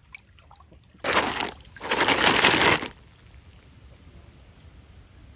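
Water splashing in two loud bursts, a short one about a second in and a longer one right after it.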